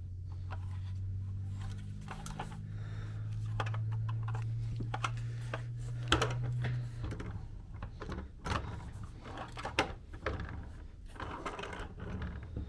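Handling noise from a plastic toy truck bank: scattered light clicks and taps as it is turned over in the hands, over a low steady hum that stops about seven seconds in.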